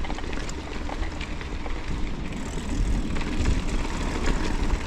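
Mountain bike riding a rough, bumpy track, with wind rumbling over the microphone. Scattered ticks and rattles come from the tyres and bike over stones.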